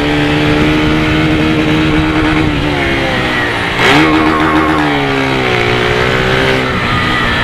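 Motorcycle engine running through its stock, not yet modified Polimet exhaust while riding under steady throttle. About four seconds in the revs rise briefly, then slowly fall away.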